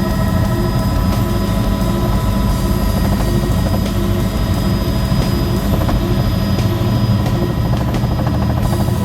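Helicopter running steadily: the rotor's low hum with the turbine engine's steady whine.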